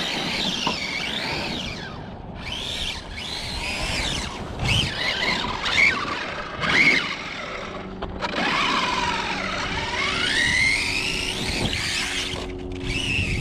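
Arrma Notorious 6S RC car's Spektrum 1250kv brushless motor whining up and down in pitch as the throttle is worked in bursts, with one long rising whine past halfway, over tyre and drivetrain noise on dirt.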